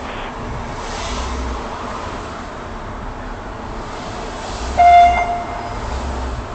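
A vehicle horn sounds once, a single-pitched blast lasting about a second, near the end, over steady outdoor noise with low rumbles.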